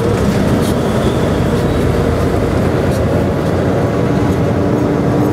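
Steady road and engine noise inside a semi-truck's cab while driving, a dense low rumble with a faint steady hum.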